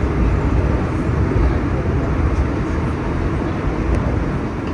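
Nostalgia subway train running: a steady rumble of the car and its wheels on the rails, heard from inside the rear cab, with a few faint ticks.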